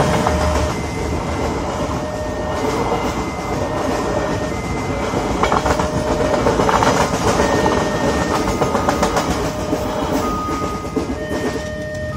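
Passenger train coaches rolling past at a level crossing: a steady rumble of wheels on rail with clusters of clicks as the wheels cross rail joints. The sound is loudest in the middle and eases near the end as the last coach passes.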